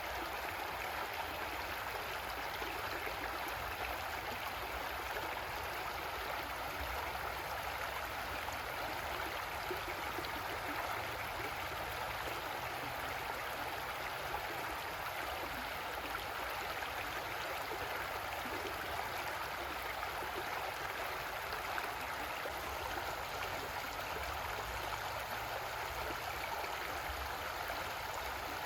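Creek water flowing and rushing over rocks, a steady even babble with no change.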